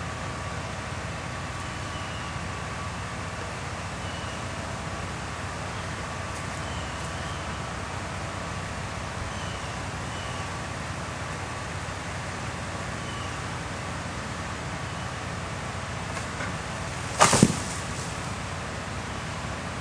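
Car driving: a steady low road rumble and hiss, with faint short chirps over it and one sudden loud knock near the end.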